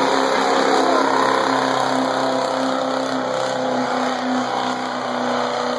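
Turbocharged diesel pickup truck at full throttle pulling a weighted sled, its engine holding loud, steady revs under heavy load.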